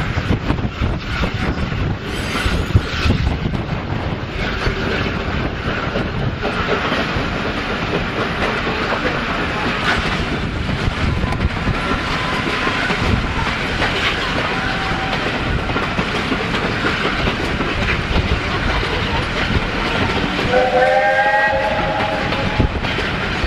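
Train running, its coaches rolling with wheels clattering over rail joints. Near the end a locomotive whistle sounds once, for about a second and a half.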